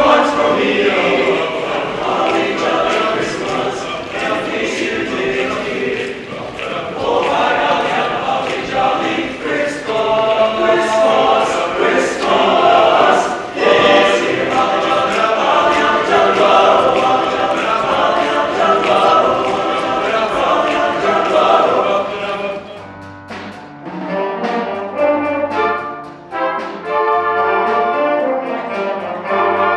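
A school choir singing a holiday piece. About three-quarters of the way through it cuts abruptly to a school band playing, with brass instruments.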